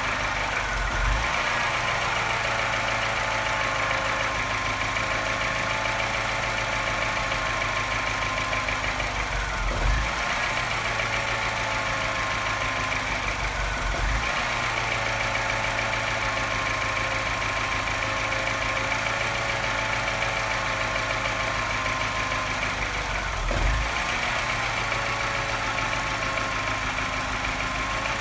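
Car engine idling at low revs with a rapid tapping and a slight misfire, which the owner hears only once the revs drop, making it clatter like a London taxi. A few brief low thumps come through now and then.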